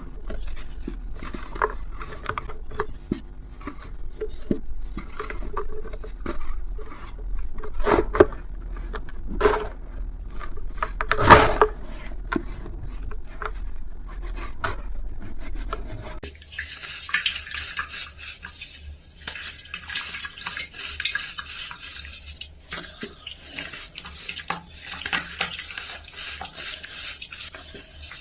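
Dry material crumbling: a string of crackles and sharp cracks, the loudest a little past the middle of the first half. About halfway through it changes to a steadier gritty rubbing and crackling.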